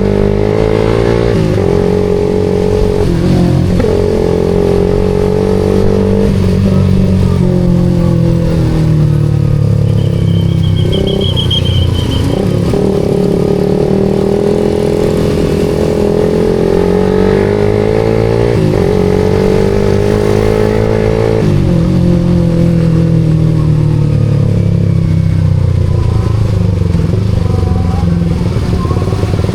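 Suzuki GSX-R150's single-cylinder engine running through a SARP aftermarket exhaust while riding: the engine pitch climbs and then drops sharply again and again as it accelerates and shifts gears, with stretches of steadier cruising. A brief high tone sounds about ten seconds in.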